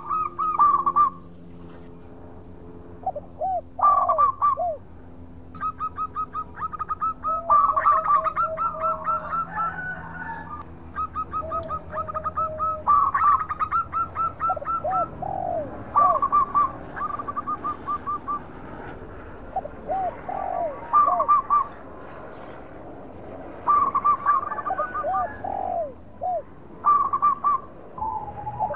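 Zebra dove (perkutut) cooing: repeated phrases of quick, short staccato notes, with lower, drawn-out rising-and-falling notes in between.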